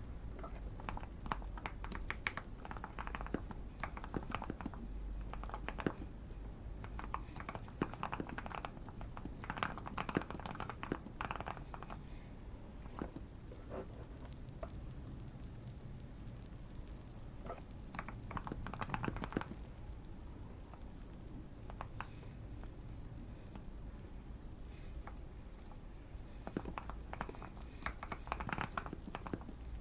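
Typing on a modded Keychron Q1 mechanical keyboard: quick runs of keystrokes in several bursts, with pauses between them. Faint fireplace crackling sounds underneath.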